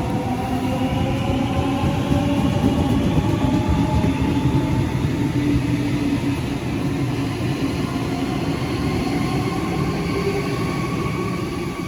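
Electric passenger train accelerating past with a rumble of wheels on track, its traction motors whining in several tones that rise slowly in pitch.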